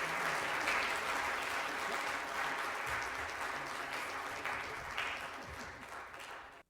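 Congregation applauding after a choir song, dying away over the last couple of seconds and cutting off abruptly at the very end.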